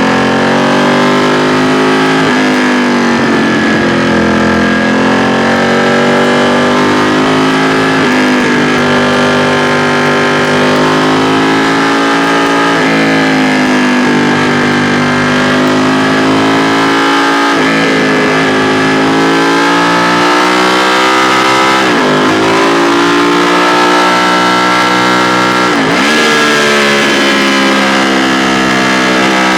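2016 Ducati XDiavel S's 1262 cc L-twin engine pulling on the road. Its pitch climbs with the revs and drops sharply about six times as the rider shifts gears or rolls off the throttle.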